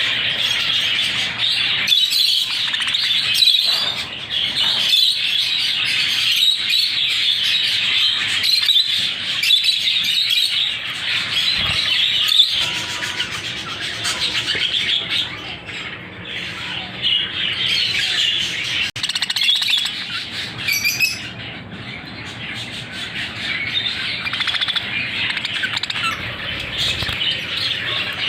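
A flock of budgerigars chattering and chirping continuously, many birds at once, a little quieter in the second half.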